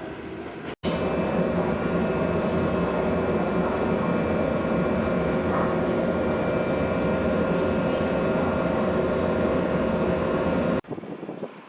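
Steady machine hum with a high hiss and several held tones, starting abruptly about a second in and cutting off near the end.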